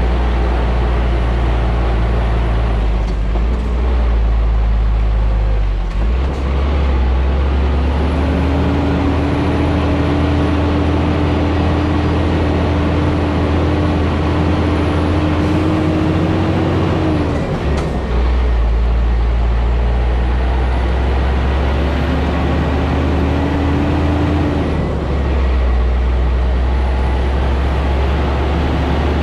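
Scania G440 truck's diesel engine holding back a loaded 110-tonne nine-axle tanker combination on a descent: a steady heavy drone with a faint whine that rises slowly. The low note shifts about six, eighteen and twenty-five seconds in.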